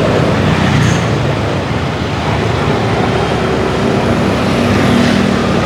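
Motorbike riding along a road in traffic: steady engine and road noise.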